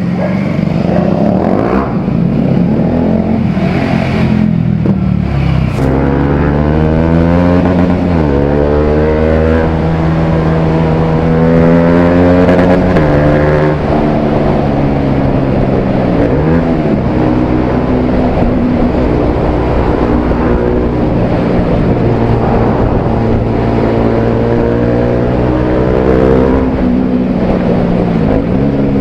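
Bajaj Pulsar 200 single-cylinder engine running through an Akrapovic aftermarket exhaust, ridden under throttle. It climbs in pitch and drops back several times, at about eight seconds, around fourteen to sixteen seconds and near the end.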